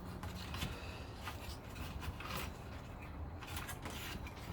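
Faint, scattered clicks and taps of wooden pieces being handled and set in place, over a low steady hum.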